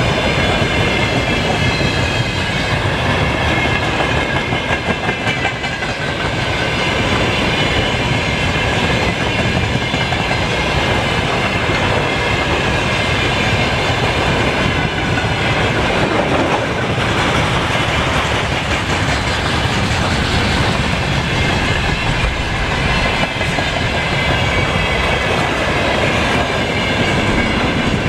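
Freight train wagons rolling past on a curve, wheels clattering steadily over the rail joints, with a steady high-pitched ringing above the rumble.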